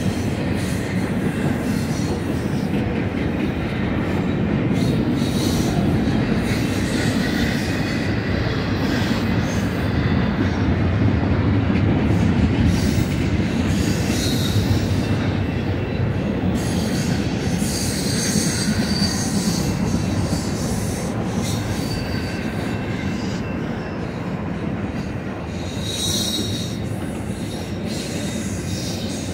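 BNSF double-stack intermodal container train's loaded well cars rolling past close by: a steady rumble of steel wheels on rail, with high wheel squeals coming and going on the curve.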